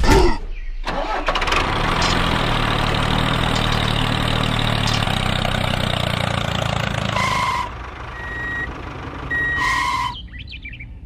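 An engine starts and runs steadily for about six seconds, then stops. Two short high beeps follow, a couple of seconds apart.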